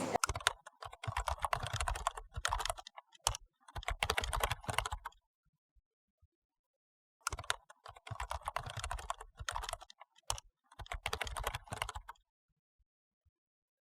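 Typing on a laptop keyboard: rapid key clicks in two spells of about five seconds each, with a pause of about two seconds between them.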